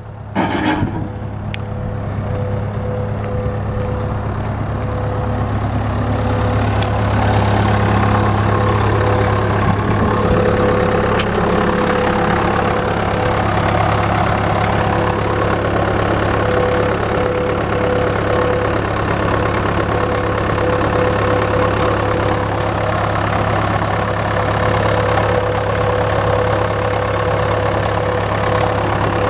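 Cat 289C skid steer's diesel engine running steadily, growing louder over the first several seconds and then holding an even level. A brief clatter comes about half a second in.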